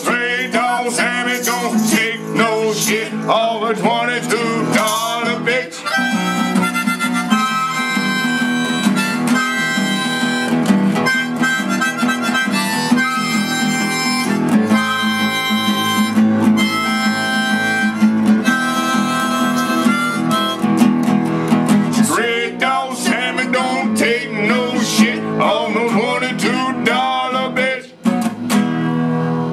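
Blues on harmonica over acoustic guitar: the harmonica bends and wavers through its notes near the start and again near the end, and holds long notes in between, with the guitar steady underneath.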